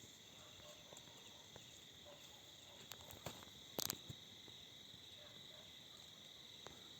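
Faint steady trilling of insects in the jungle, with a few light ticks and one sharp click about four seconds in.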